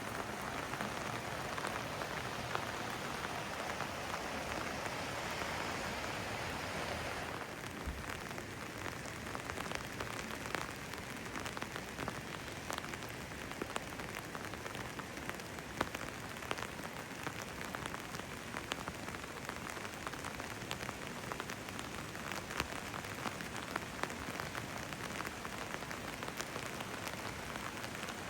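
Steady rain falling, with many individual drops ticking close by. A denser rushing hiss runs for the first seven seconds and then drops away abruptly, leaving the patter of drops.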